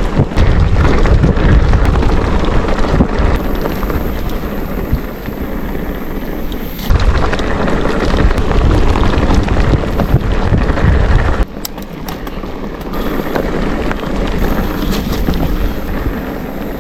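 Wind buffeting the microphone of a moving rider: a loud, low, rumbling noise that swells and eases, dropping off sharply about eleven seconds in.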